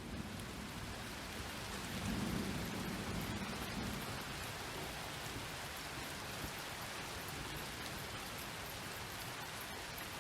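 Steady rain falling, with a low rumble of thunder swelling about two seconds in.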